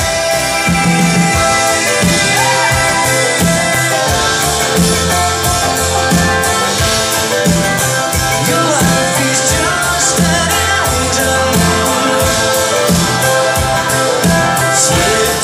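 Live band playing a song with sung vocals over a steady drum beat.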